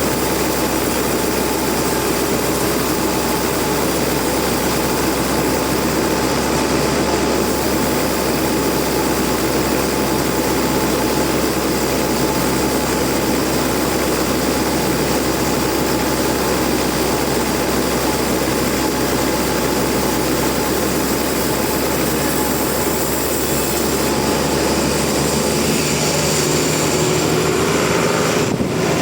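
Engine-driven sawmill running steadily, a continuous machine drone with saw noise over it, its sound shifting slightly near the end.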